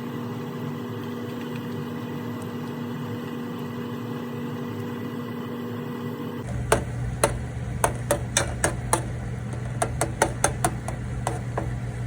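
A steady machine hum. About two thirds of the way through it changes abruptly to a lower hum with a series of irregular sharp knocks and clicks.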